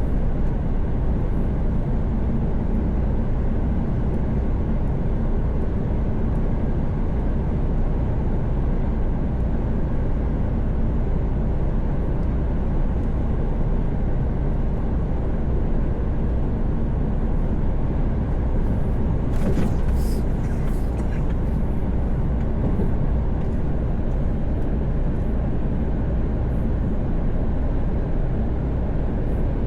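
Mercedes Actros truck cruising at highway speed, heard from inside the cab: a steady low engine drone mixed with tyre and road noise. A brief cluster of sharp clicks about two-thirds of the way through.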